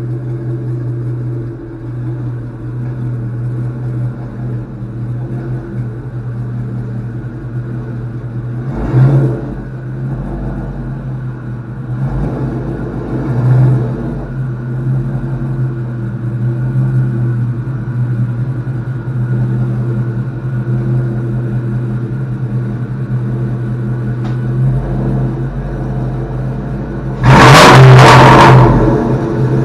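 A car engine idling steadily, with two short rises in revs about a third of the way in and a much louder rev or burst of acceleration near the end.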